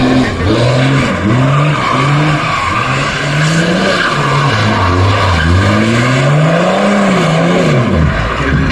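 Car engine revving up and down again and again with the tyres squealing and skidding on asphalt, as in drifting or a burnout. The revs come in quick blips at first, then in one longer, slower rise and fall near the end.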